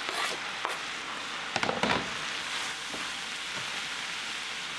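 Beef fillet strips, garlic and mushrooms sizzling in butter in a frying pan, a steady hiss. A short cluster of knocks about a second and a half in, with a few lighter clicks elsewhere, from utensils against the pan and cutting board.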